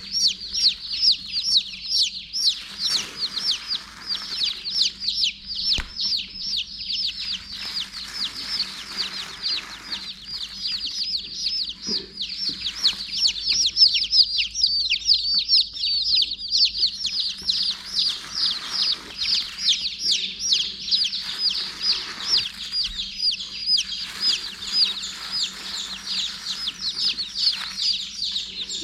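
Silkie baby chicks peeping nonstop, many shrill cheeps a second overlapping, with bouts of rustling in the box's hay.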